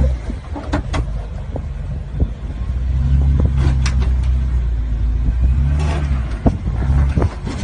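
A car engine running with a deep, low rumble, with a few short clicks or knocks over it.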